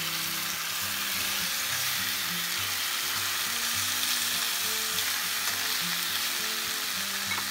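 Thin beef steaks and sliced onions sizzling steadily as they fry in oil in a stainless steel pan, with faint background music underneath.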